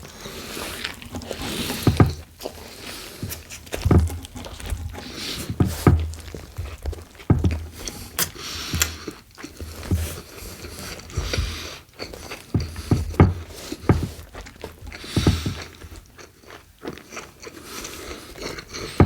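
Close-miked eating of a BLT sandwich on Italian bread with bacon and iceberg lettuce: biting and chewing with crunching, and a low thump every second or two.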